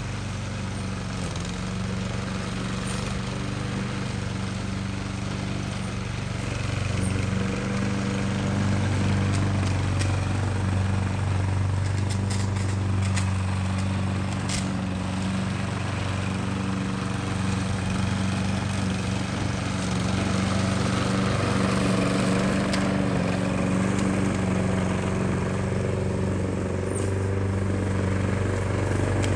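Small petrol engine of a grass cutter running steadily at an even speed.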